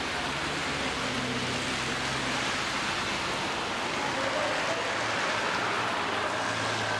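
Steady hiss of rain falling on a city street, with a low, even hum underneath.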